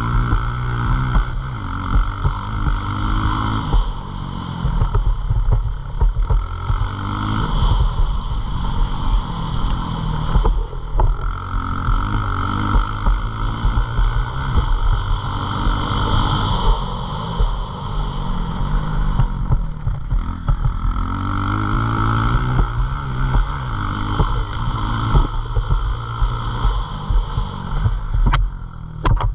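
Pit bike engine running under riding load, its note repeatedly rising and falling every few seconds as the throttle is opened and closed, with a steady rushing noise throughout.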